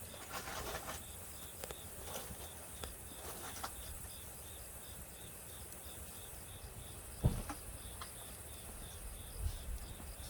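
Crickets chirping steadily in a faint, regular rhythm at night. A few soft clicks and one dull thump about seven seconds in.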